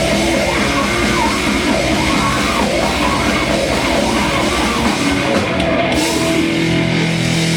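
Live heavy rock band playing loud, with distorted guitars, drums and shouted vocals. About six seconds in it settles into a held, ringing chord.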